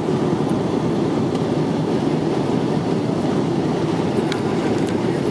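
Steady loud rumble inside the cabin of a Boeing 777-300ER during landing, with faint ticks and rattles now and then.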